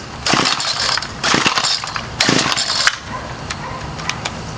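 Three pulls on the recoil starter rope of a Bolens 31cc two-stroke string trimmer, each a short rasping burst about a second apart, cranking the cold engine without it catching.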